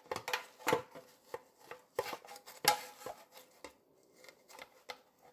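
Metal parts being handled, knocking and clicking against each other in a string of irregular sharp taps that thin out and stop about five seconds in.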